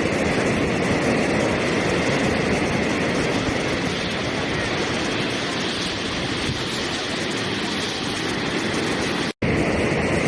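Steady rushing water, a dense even noise that cuts out for a split second near the end.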